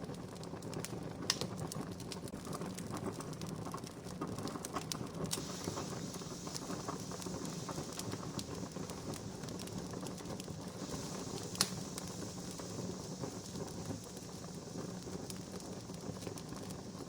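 Wood fire crackling: a steady hiss with many small snaps and two sharper pops, one about a second in and another about two-thirds of the way through.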